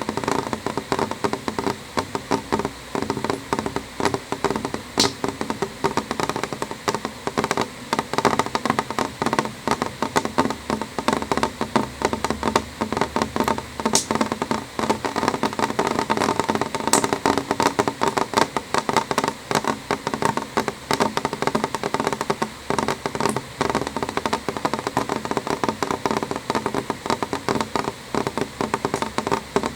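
Steady rain drumming on a window pane: many closely spaced drop taps at a constant level, with a few sharper, brighter clicks here and there.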